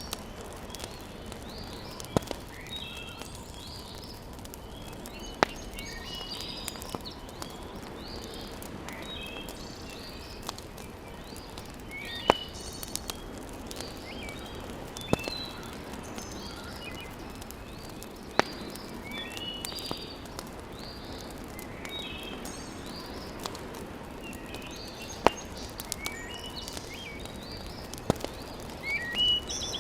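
Wood fire in a fireplace burning with a steady hiss and a sharp crackling pop every few seconds. Birds chirp over it throughout.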